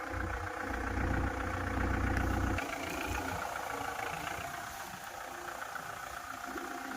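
Kubota MU4501 tractor's diesel engine idling steadily. A heavy low rumble is strong for about the first two and a half seconds, then cuts off suddenly, leaving the steady engine hum.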